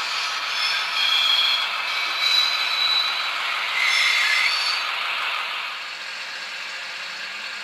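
Bemo MK45 model locomotive running on model track, a thin steady rattle of small wheels and mechanism with short high squeals, getting quieter about six seconds in.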